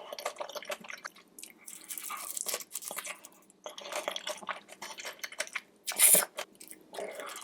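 A person eating seafood boil close to the microphone: wet chewing, smacking and crunching in quick, irregular bursts, with one louder burst about six seconds in.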